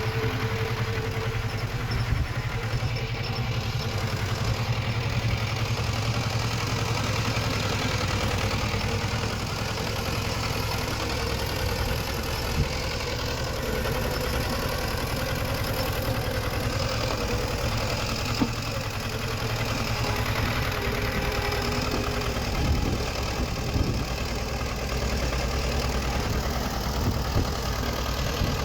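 Diesel engine of heavy earthmoving machinery running steadily, with a few short knocks now and then.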